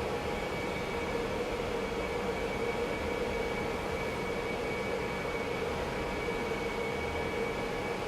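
BGA rework station's hot-air blower and cooling fans running: a steady, unchanging rush of air with a constant hum and a fainter higher steady tone.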